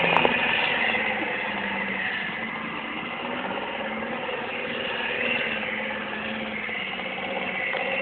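Truck engine running steadily, its pitch rising and falling a little.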